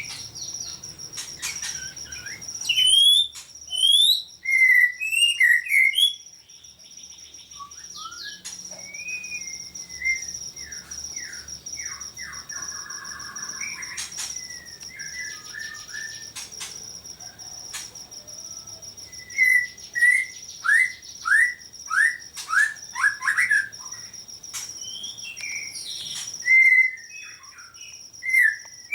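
Caged songbirds singing and calling: loud clusters of rapid chirps and whistled notes about three seconds in and again from about twenty seconds in, with scattered calls between, over a steady high-pitched ringing tone.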